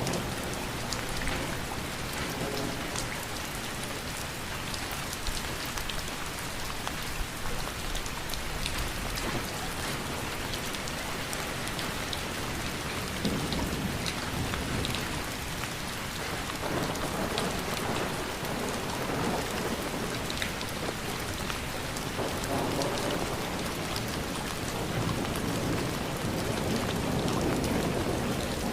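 Steady heavy rain, dense with the patter of individual drops, with low rumbles of thunder swelling a few times, the longest near the end.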